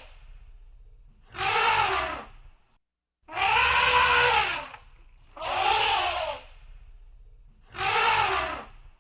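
Elephant trumpeting: four loud calls, each about a second long, rising then falling in pitch, with short pauses between them.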